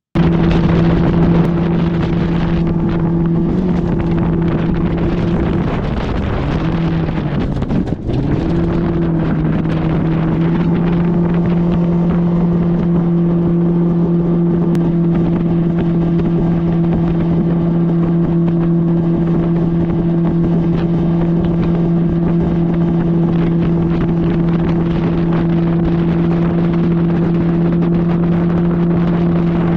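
A boat's motor runs steadily at high speed, with wind buffeting the microphone. Its pitch sags briefly about six seconds in, then drops sharply and recovers about eight seconds in, before holding steady again.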